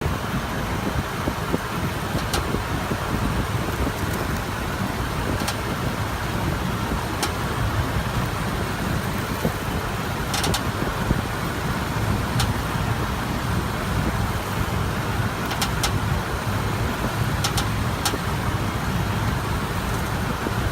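Lifted Toyota Tundra pickup on the move, with a steady low rumble of road and engine noise, and short high squeaks every few seconds: a squeak that started after the truck was lifted.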